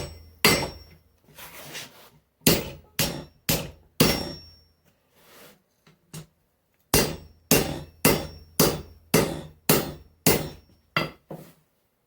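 Hammer blows on hot steel over an anvil, about two a second in three runs with short pauses between, some leaving a brief ring. The smith is thinning down mild steel for the axe's eye, forming shoulders in the metal.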